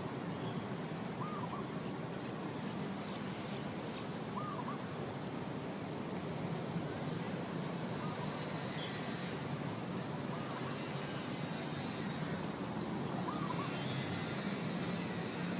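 A bird repeating a short, hooked call about every three seconds, about five times, over a steady low background rumble.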